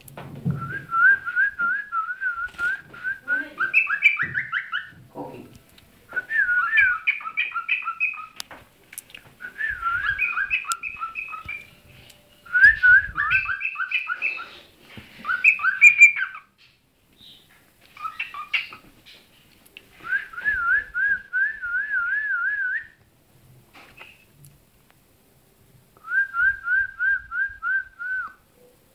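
Cockatiel whistling in rapid warbling phrases that trill up and down, in about eight bouts of one to three seconds with short pauses between them.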